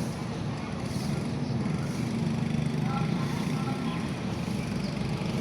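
Steady rain falling, a continuous even hiss with a heavier low rumble.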